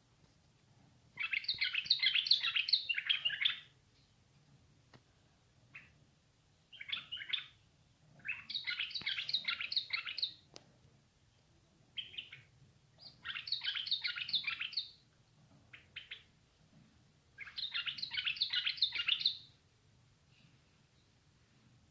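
Rapid, squeaky chirping calls from a small animal, in five bursts of about two seconds each, with a few short chirps between them.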